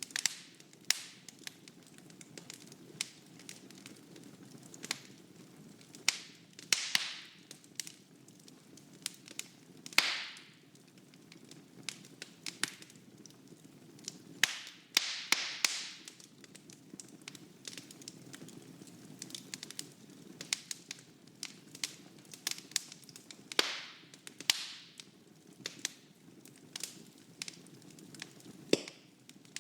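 Wood fire burning in a fireplace: irregular sharp crackles and pops, some louder and hissing, over a steady low rush of flame.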